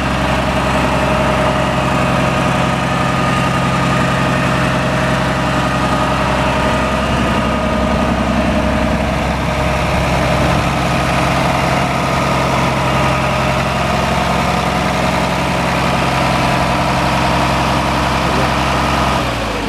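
1967 International Harvester 856D Wheatland tractor's six-cylinder diesel engine idling steadily. It starts to wind down right at the end.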